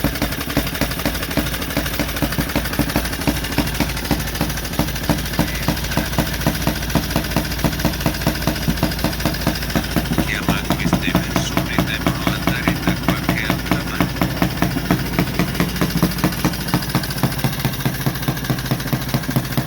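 1928 Benelli 175 Turismo motorcycle engine idling with an even beat of about four exhaust pulses a second, running cold just after an easy first-kick start.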